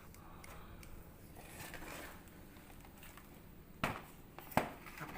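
Faint rustling and handling noise over a low steady hum, then two sharp hard knocks about three-quarters of a second apart near the end, with a lighter knock just after.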